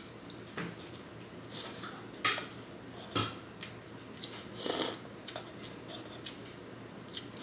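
Utensils and dishes clinking and scraping while eating, with sharp clinks about two and three seconds in and short rustling scrapes between them.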